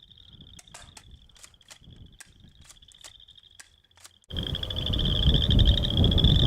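Guns being fired down range, heard as a quick irregular series of about ten sharp light clicks, over crickets trilling steadily. About four seconds in, a loud rough rushing noise takes over.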